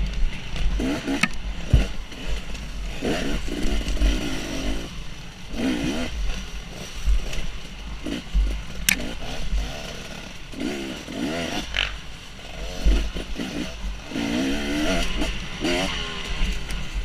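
Dirt bike engine revving up and falling back again and again with the throttle and gear changes, its pitch rising in short sweeps every second or two, over a low uneven rumble.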